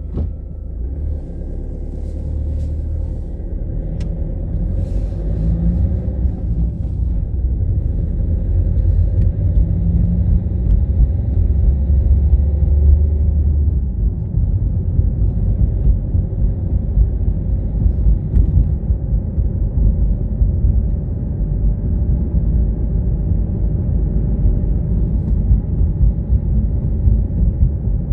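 A car driving: a steady low rumble of engine and road noise, growing louder over the first several seconds and then holding steady.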